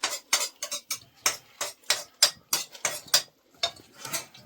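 A knife chopping on a cutting board: a run of sharp, regular knocks, about three a second.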